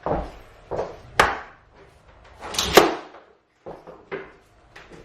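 Cork floor planks being fitted and knocked into their click locks: several irregular wooden knocks and thuds, the loudest a quick pair a little past halfway.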